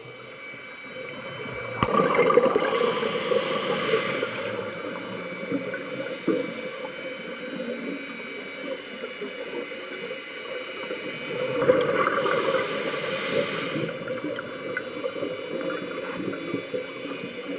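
Underwater bubbling from a scuba diver exhaling through the regulator, two bursts of bubbles about ten seconds apart, over a steady faint hum.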